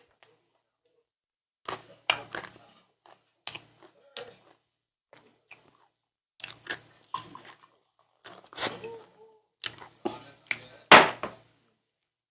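Close-up eating sounds: wet chewing and slurping in a series of short, separate bursts, the loudest about eleven seconds in.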